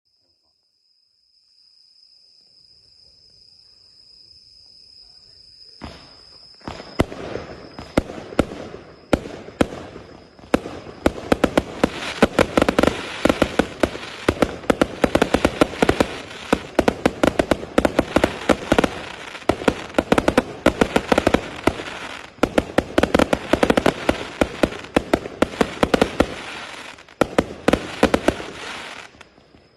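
A 1000-shot, 0.8-inch firework cake firing: after a few seconds of faint hiss, rapid shots begin about six seconds in and build into a dense, continuous barrage of launches and cracking bursts.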